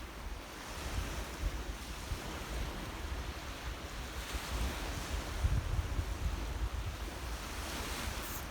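Sea waves washing in steadily, swelling about four seconds in, with wind buffeting the microphone in low rumbling gusts.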